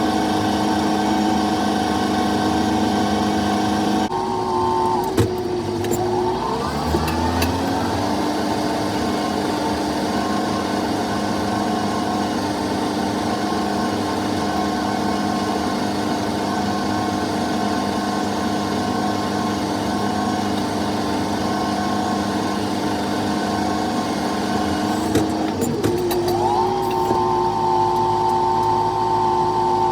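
Tractor engine running steadily while pulling a mole plough through the ground. Its pitch drops about four seconds in, climbs back up as it gathers revs, and rises again near the end.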